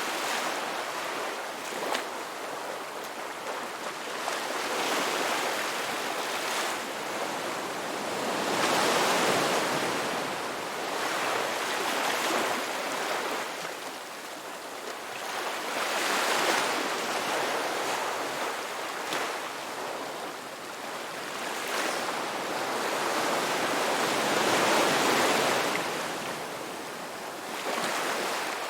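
Ocean surf: waves breaking and washing back in a steady hiss that swells and fades every few seconds, with a larger wave about every eight seconds.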